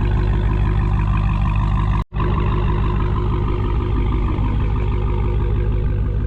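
Supercharged 6.2-litre Hemi V8 of a Dodge Challenger Hellcat idling steadily through a mid-muffler-delete exhaust, with a deep, even burble and no rattle. The sound drops out for an instant about two seconds in.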